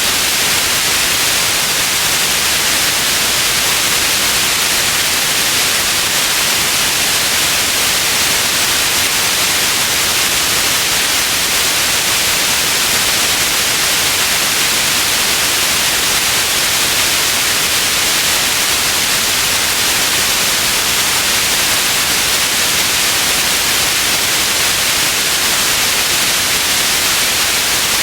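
Steady white noise, an even hiss weighted toward the high end, with no change or break.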